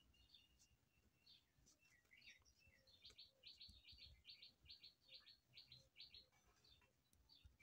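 Faint bird chirping in the background: scattered high chirps, then a run of about a dozen short, evenly spaced notes, roughly three a second, from about three to six seconds in.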